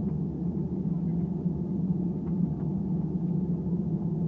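Steady low rumble inside the cabin of an Airbus A320 rolling on the ground after landing: engine noise and the rumble of the wheels, at an even level throughout.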